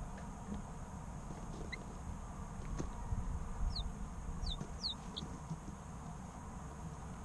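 Three-week-old chicks peeping: a faint single chirp, then a quick cluster of four short, high, falling chirps around the middle, over a steady low rumble.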